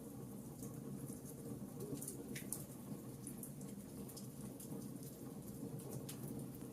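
Wood fire crackling: scattered small sharp pops and snaps over a low steady rumble of flame.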